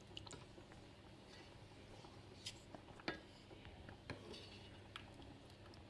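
Near silence, broken by about five faint, short clicks and taps of kitchen things.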